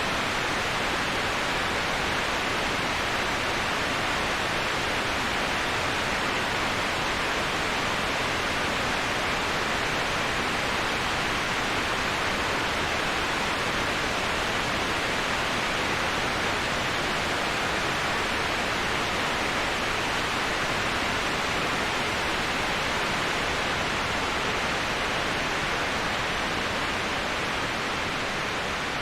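Waterfall rushing as a steady, even hiss with no breaks, easing slightly in level near the end.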